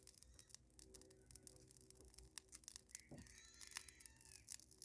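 Faint crackling of a freshly lit bonfire of dry pine twigs: scattered sharp snaps and ticks, with a faint bird call about three seconds in.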